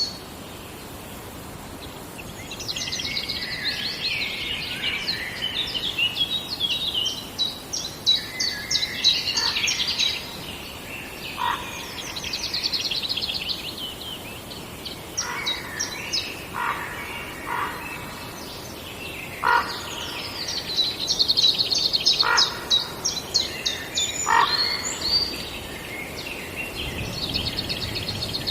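Forest songbirds singing: overlapping phrases of fast, high trills, with short, lower clear notes called between them every few seconds.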